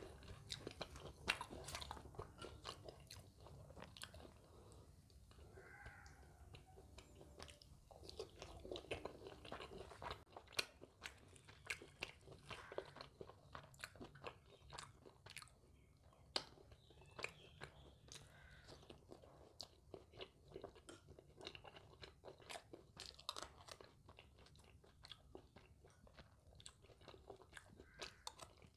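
A person chewing and biting crispy khasta kochuri with mung dal: quiet, irregular crunches and wet mouth clicks.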